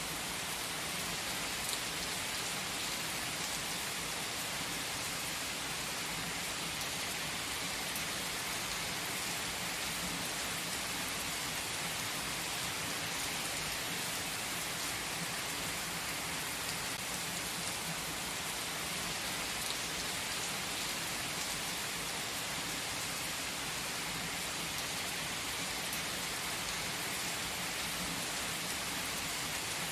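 Steady rain falling: an even hiss with faint, scattered drop ticks, unchanging throughout.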